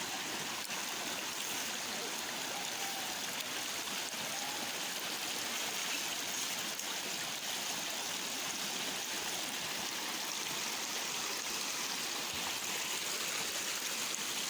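Steady rush of water at a waterfall: an even hiss with no changes.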